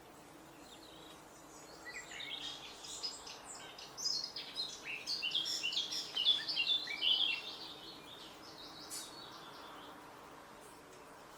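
Birds singing: a dense run of quick, high chirps and trills begins about two seconds in, then thins out to a few scattered calls after the halfway point.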